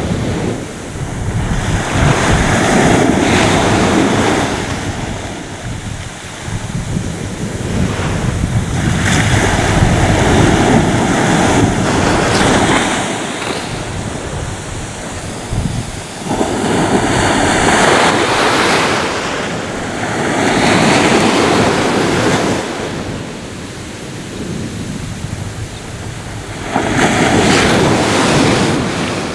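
Ocean waves breaking on a shore: the surf rises in a noisy rush and washes back, about five swells each a few seconds long.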